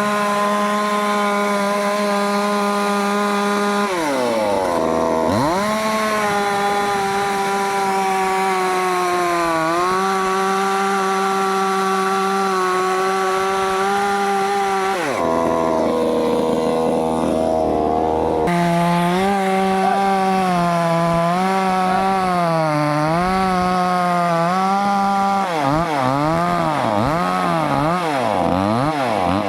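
Chainsaw running at high revs while cutting wood, its pitch sagging under load and recovering several times. About four seconds in it drops briefly toward idle and revs back up. Near the end the throttle is worked up and down rapidly over and over.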